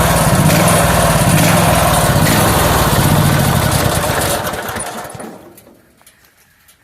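Small gasoline engine of a homemade sawmill running steadily, then shut off about four seconds in and dying away over a second or so.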